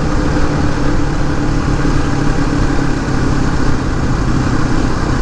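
Suzuki DR250S single-cylinder four-stroke engine running steadily at an even speed, its note holding constant under a wash of road noise, heard through a Dominator R aftermarket exhaust.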